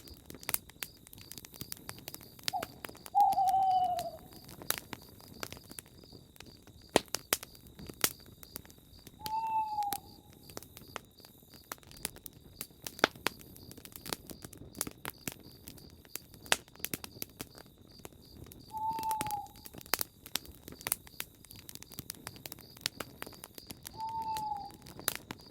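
A wood campfire crackling and popping, with an owl hooting four times. Each hoot is a single short call that dips slightly in pitch, and the first is the loudest.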